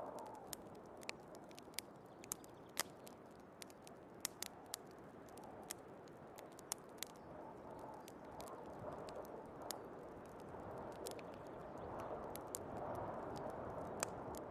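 Wood fire crackling with frequent sharp pops, over a steady rush of storm wind that swells and eases and grows louder near the end.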